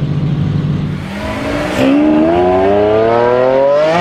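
Lamborghini Huracán Performante's naturally aspirated V10 turning over at low revs, then from about a second in accelerating hard, its note rising steadily in pitch and getting much louder about halfway through as the revs climb through a gear.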